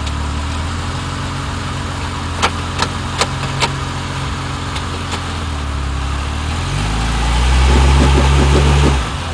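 Vehicle engine idling steadily, with four sharp clicks a little after two seconds in. About seven seconds in it revs up, holds louder for about two seconds, then drops back to idle.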